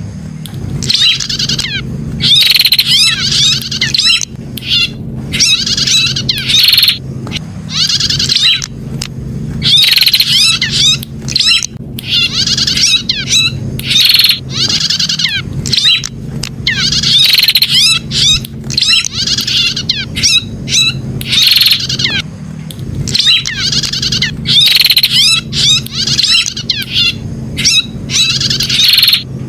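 Prenjak (prinia) singing its 'pijat' call: loud runs of rapid, sharp chirps in bursts that come about every second or two, over a steady low hum.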